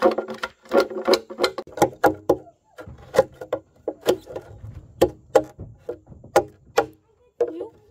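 A rapid, irregular series of sharp wooden knocks, about two to three a second, stopping shortly before the end.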